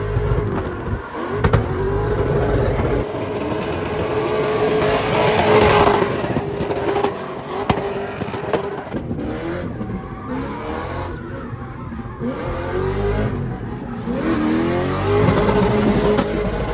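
Vehicle engine revving hard while the tires squeal in a long, wavering screech, as in a burnout.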